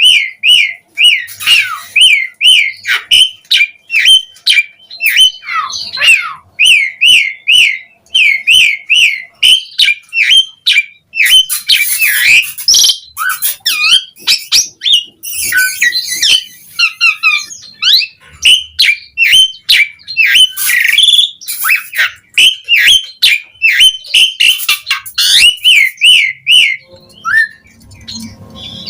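Asian pied starling (jalak suren) singing continuously: fast runs of short whistled notes, about three a second, broken now and then by harsh, scratchy phrases.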